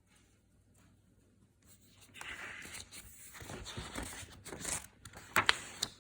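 Paper rustling and crinkling as a picture book's page is handled and turned, ending with a couple of sharp paper snaps.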